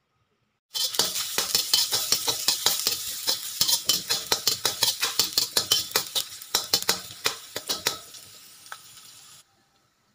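Chopped aromatics sizzling in hot oil in a wok while a metal spatula stirs, scraping and clicking against the pan about three to four times a second. The sizzle cuts off suddenly near the end.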